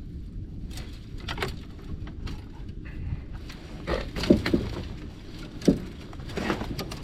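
Rope and cut brush being handled in a boat: rustling and scraping, with two sharp knocks about four and five and a half seconds in, over a low steady rumble.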